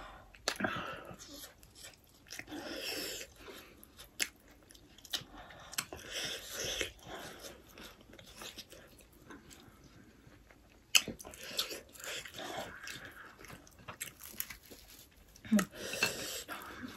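Quiet chewing and wet mouth sounds of people eating pork momo dumplings, broken by scattered sharp smacks and clicks.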